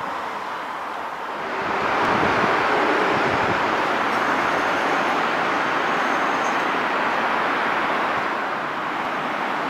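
A train running past on the line: a steady rushing of wheels on track that swells about a second and a half in and then holds.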